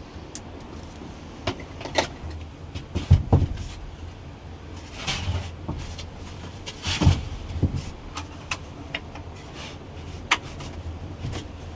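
Irregular knocks and clicks, a few louder thumps among them, over a steady low rumble.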